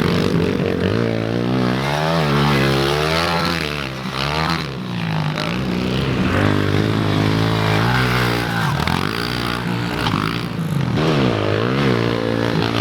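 Pit bike's small four-stroke engine being ridden hard, revving up and dropping back again and again, about every two seconds, as the rider works through the gears and throttle.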